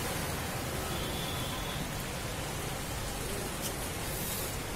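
Steady, even hiss of heavy monsoon rain falling.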